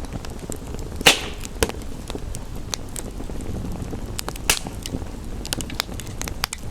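Wood fire crackling, with frequent small snaps and two louder pops, about a second in and about four and a half seconds in, over a steady hiss of rain.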